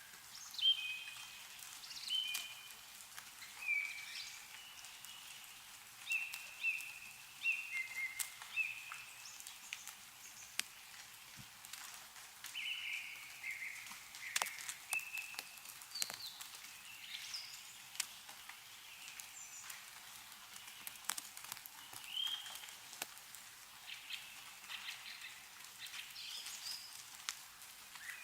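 Meltwater dripping from snow-covered trees in scattered irregular ticks, with birds giving short repeated calls throughout.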